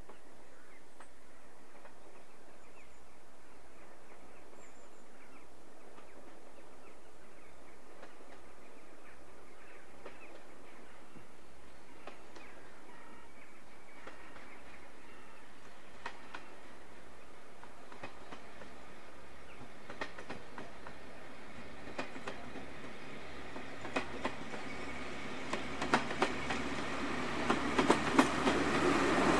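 A train on the heritage line approaching, its wheels clicking over rail joints: scattered clicks at first, then more frequent and louder over the last few seconds as it draws near.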